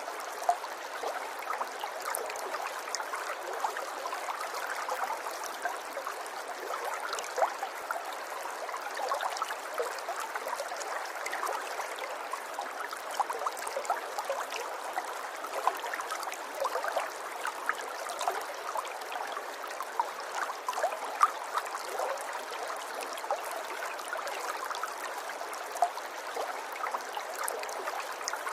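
River water flowing: a steady, soft rush with many small splashes and gurgles scattered through it.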